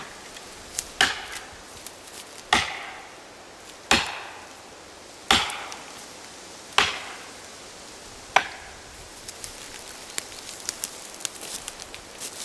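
Seven heavy axe blows on wood, about one every one and a half seconds, each ringing briefly. In the last few seconds a quickening run of small crackles starts.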